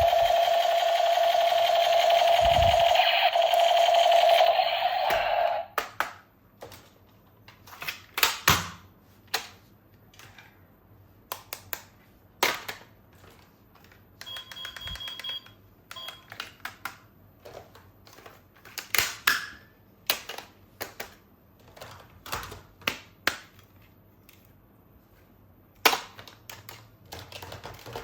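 A loud, steady electronic buzzing tone for about the first five seconds, stopping abruptly. After it come scattered sharp clicks and rattles of plastic toy-gun parts being handled.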